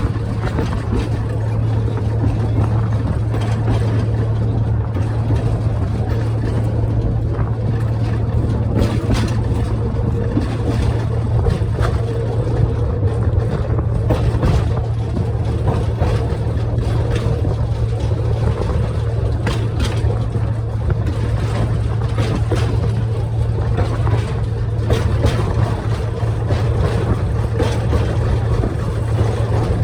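Little tourist train running steadily during the ride: an even engine drone with a strong low hum and scattered light clicks and knocks from the running gear.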